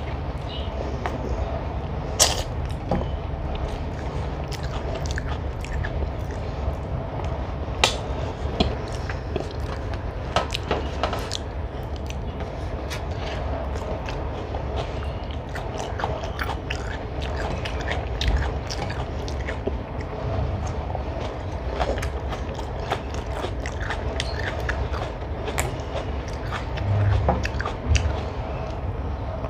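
Close-up eating sounds: a person chewing and biting chicken masala eaten by hand, with scattered sharp clicks and small taps, over a steady low hum.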